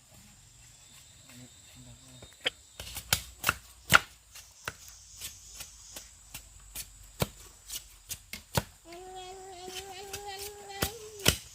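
Sharp, irregular knocks of wood or bamboo being struck, several a second, starting about two and a half seconds in. Near the end a drawn-out voice is held for about two seconds.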